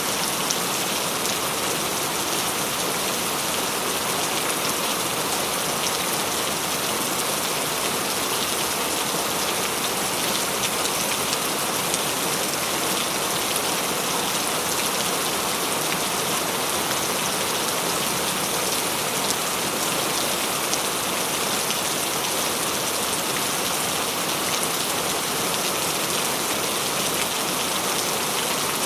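Steady, heavy rain falling on a surface, a dense hiss full of fine drop patter.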